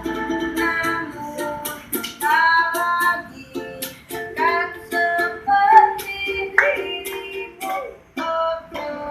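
Child singing a dangdut-style song to a strummed small string instrument, with sharp rhythmic strums under the melody.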